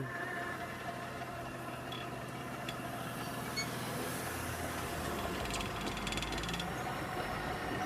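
Level crossing barriers being raised by their motors: a steady mechanical hum with a few held tones. A low rumble builds about halfway through.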